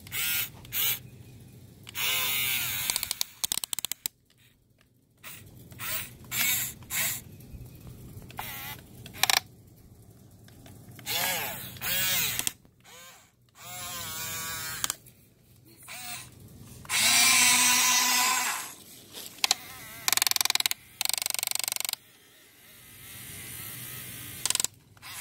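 Small RC toy tractors' electric drive motors whirring in short bursts, with a lot of clicking from the gears because the batteries are nearly dead.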